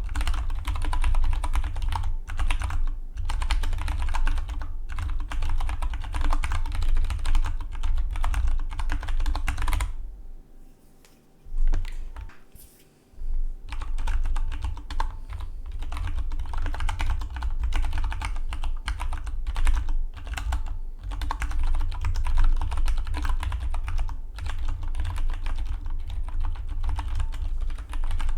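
Fast typing on a Dygma Defy split mechanical keyboard: a dense, steady run of keystroke clicks. About ten seconds in, the typing pauses for roughly three seconds, broken by a single key press, then picks up again.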